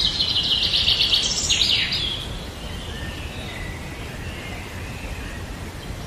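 A bird calling: a loud, fast chattering trill for the first second and a half, then a few quick falling notes, and fainter high calls afterwards over steady low background noise.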